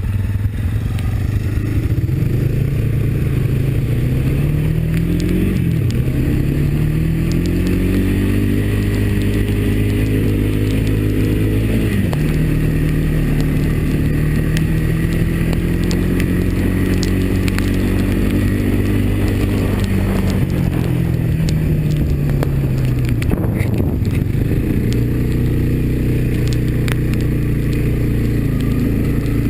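Single-cylinder Honda ATV engine running under way, revving up and dropping sharply in pitch twice as it shifts up, about six and twelve seconds in. It then holds steady, eases off around twenty seconds in and picks up again near the end, with a few faint clicks over it.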